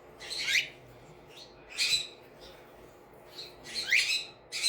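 Pet parrot making a series of short, high squawking calls, several sweeping upward in pitch, about one every second or two.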